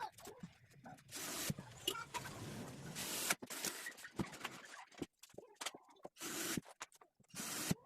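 Irregular scraping and rustling noises with a few sharp knocks and clicks, as materials are worked by hand.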